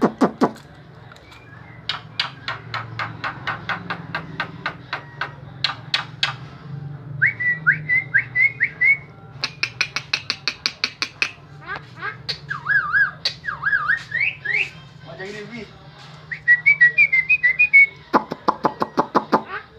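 Jalak starling singing a varied song: fast runs of short clipped notes alternating with clear whistled phrases that swoop up and down, with a loud rapid run of notes near the end.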